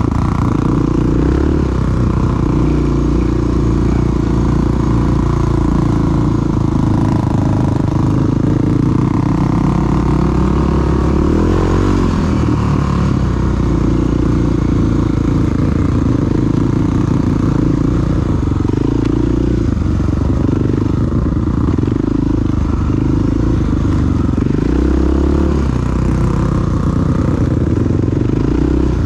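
Single-cylinder four-stroke dual-sport motorcycle engine running steadily under way, its pitch rising and falling a little with the throttle.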